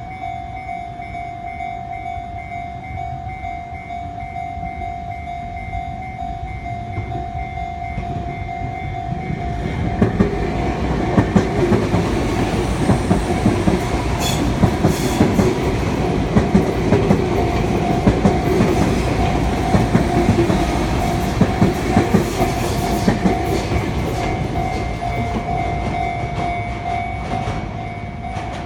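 Japanese level-crossing warning bell ringing in a steady pulsing tone while a Sotetsu 7000 series electric train approaches and passes. The train arrives about ten seconds in, its wheels clacking over the rail joints in a regular run of loud beats. Its noise fades near the end while the bell keeps ringing.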